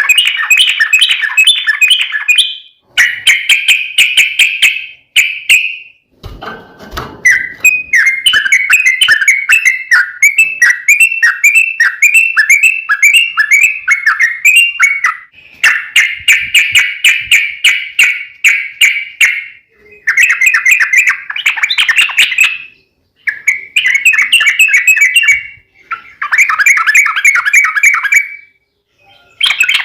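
Yellow-vented bulbul (trucukan) singing loud, fast, bubbling phrases: about eight long chattering bouts, each a few seconds long, with short pauses between them.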